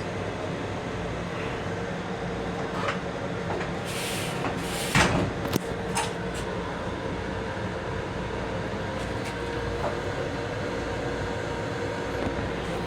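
Steady rumble and hum inside a Long Island Rail Road M7 electric railcar. Between about four and six seconds in comes a short cluster of clatter and knocks.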